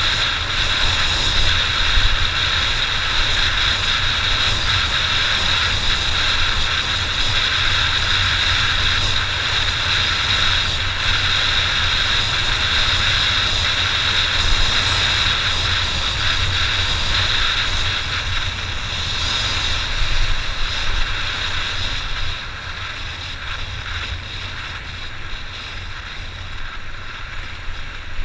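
Honda XR600 dirt bike's single-cylinder four-stroke engine running under way, with a steady hiss of wind. It gets quieter about three-quarters of the way through.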